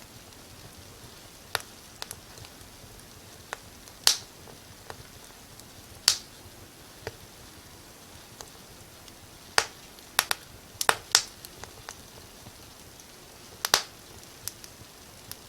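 Fire crackling in a fireplace: irregular sharp pops and snaps, about fifteen, several in a quick cluster about two-thirds through, over a faint steady hiss.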